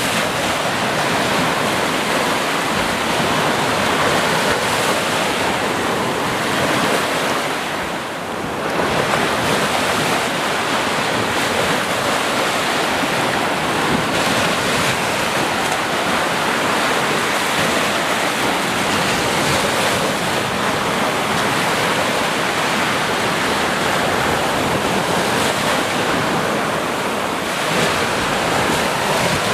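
Sea surf: waves breaking and washing in steadily, with a brief lull about eight seconds in.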